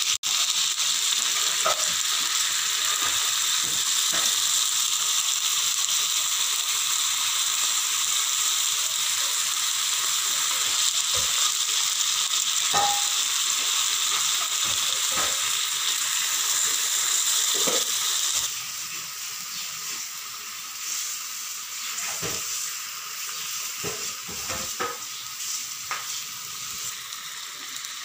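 Marinated beef tapa frying and bubbling in a nonstick pan, with a steady sizzle that drops noticeably quieter about two-thirds of the way through. Scattered clicks and scrapes of a utensil against the pan.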